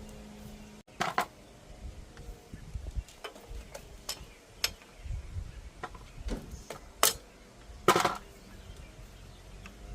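Metal clinks and knocks of tools and bicycle parts being handled while a bike is taken apart, a handful of separate sharp strikes with the loudest about seven and eight seconds in.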